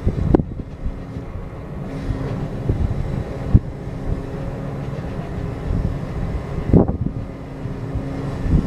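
Cargo ship's engine running steadily with a low hum while the ship is berthing, broken by a few short low thumps.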